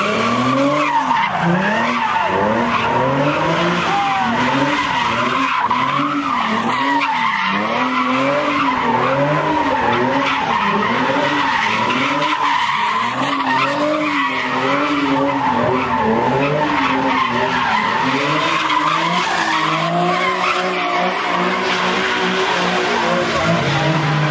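Car spinning donuts: the engine revs up and down about once a second over a continuous screech of spinning tyres. The revving settles to a steadier note near the end.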